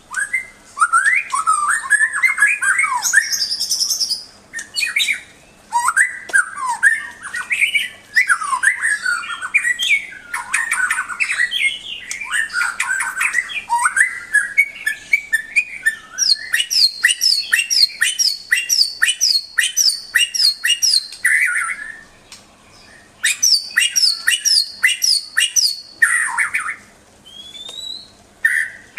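White-rumped shama (murai batu) in full song: a loud string of varied whistled phrases that sweep up and down, then fast runs of repeated sharp notes in the second half, broken by two short pauses near the end.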